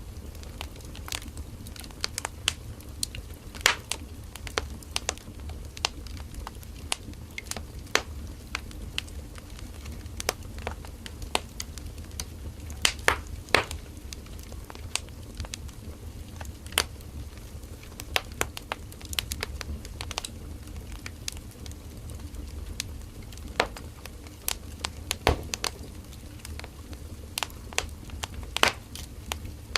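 Firewood burning in a campfire, crackling with irregular sharp pops and snaps over a low steady rumble of the flames.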